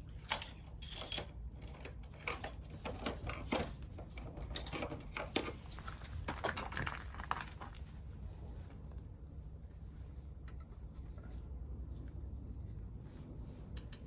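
Metal hand tools and small scooter engine parts clinking and clattering on a workbench during disassembly, busy at first and thinning out after about eight seconds, over a steady low hum.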